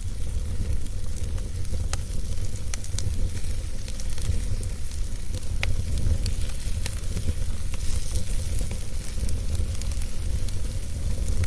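Wood fire burning in a fireplace: a steady low rumble and hiss, with scattered sharp crackles and pops from the burning logs.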